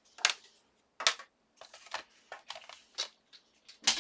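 A handful of short scrapes and rustles of cardstock and small craft tools being handled on a desk, spaced irregularly, with quiet between them.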